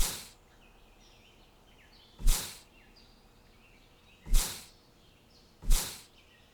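Short, loud whooshes, four of them about every one and a half to two seconds, each swelling fast and fading away, over faint background bird chirps.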